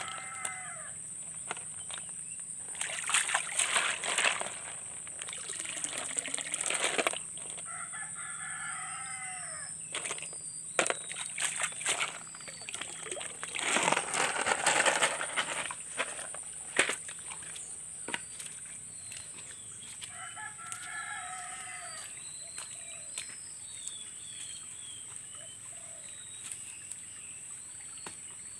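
A rooster crows three times: at the start, about eight seconds in and again about twenty seconds in. Between the crows comes splashing and sloshing water as snails are rinsed in a plastic basket in a shallow stream, loudest around three to five and thirteen to sixteen seconds in, over a steady high whine, with small bird chirps near the end.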